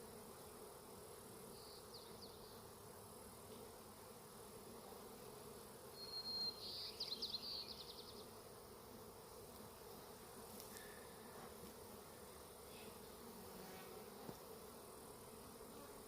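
Honeybees buzzing in a steady low hum around a broken-open hive. A brief high trill stands out about six seconds in, with a fainter one near the start.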